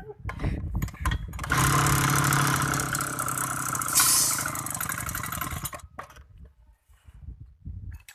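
Small two-stroke grass trimmer engine: a few clicks, then it starts and runs for about four seconds, briefly louder partway through, before stopping.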